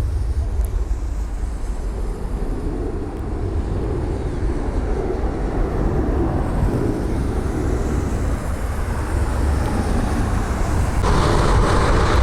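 Steady low rumble of distant jet aircraft engines mixed with wind on the microphone; about eleven seconds in a louder, hissier engine noise comes in.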